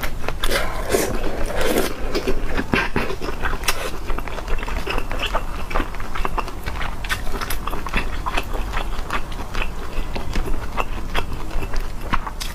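Close-miked eating: a person bites and chews food, making a dense run of quick, crisp clicks and wet mouth sounds.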